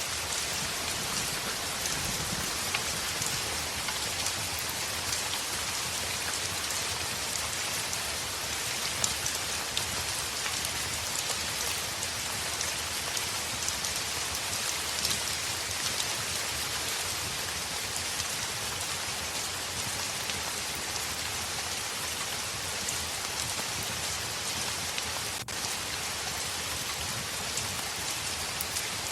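Steady heavy rain falling on a window pane: a dense, even hiss sprinkled with small drop ticks.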